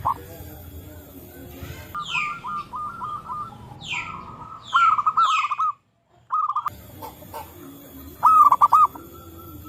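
Zebra doves cooing: clusters of quick, repeated coo notes, the loudest burst about eight seconds in. High calls sweeping downward cut in several times around the middle, and the sound drops out completely for a moment about six seconds in.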